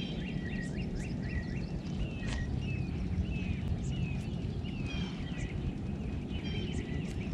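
Songbirds chirping and singing, a mix of quick repeated notes and short downward-sliding whistles, over a steady low rumble.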